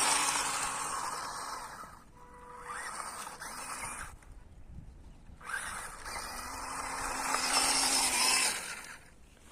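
MN82 1/12-scale RC crawler truck driving in high range, its electric motor and gears whining over tyre noise on dry ground. It is loud at first and fades away, goes almost quiet midway, then comes back louder before fading near the end.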